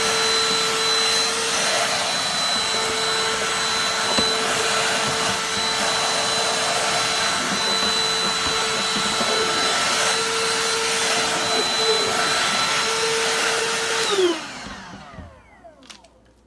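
Black+Decker 20V Dustbuster cordless handheld vacuum running with a steady high motor whine while vacuuming. About 14 seconds in it is switched off, and its whine falls in pitch and fades as the motor spins down.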